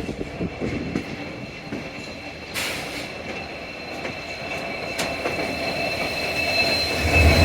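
Passenger train running, heard from on board: steel wheels on the rails give a steady high squeal over a constant rumble, with a couple of sharp clicks from the track. The rumble grows louder near the end.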